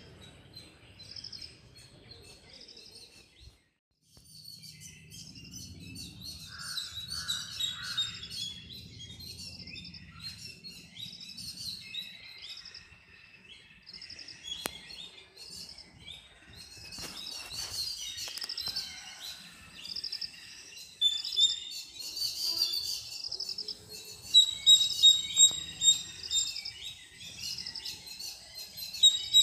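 Many small birds chirping in quick, repeated high notes. The chirping cuts out briefly about four seconds in and grows louder in the last third.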